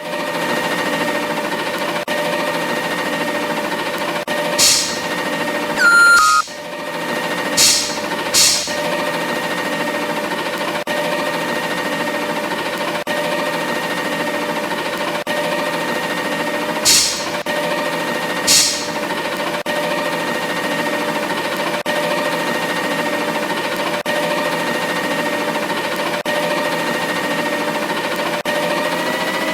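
Garbage truck running at a steady pitch with an even whine. Five short hisses sound over it, and a brief tone about six seconds in.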